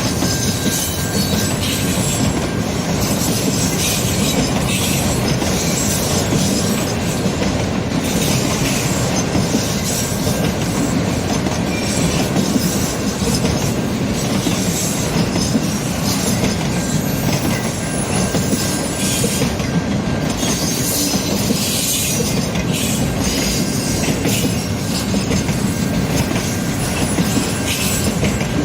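CN mixed-freight train rolling past, with a steady rumble of the cars and the wheels clicking over the rail joints throughout.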